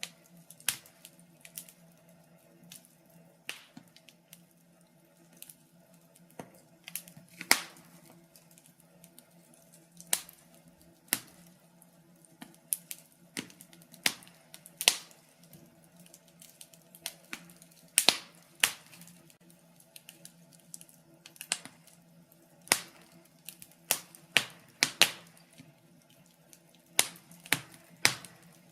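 Wood fire crackling: burning logs give irregular sharp pops and snaps, some loud and some faint, over a low steady background hum.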